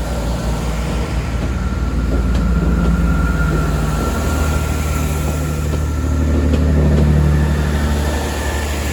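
Diesel train engine running, its low drone shifting in pitch and swelling louder twice, about three and seven seconds in.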